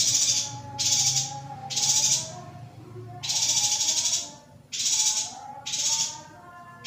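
Female yuhina giving repeated harsh, buzzy calls, each about half a second long, roughly one a second at uneven intervals, with fainter wavering notes beneath.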